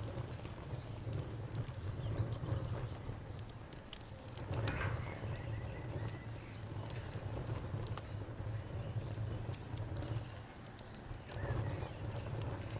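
Campfire crackling with scattered sharp pops over a low steady rumble, while crickets chirp in a fast, even pulse and frogs call now and then.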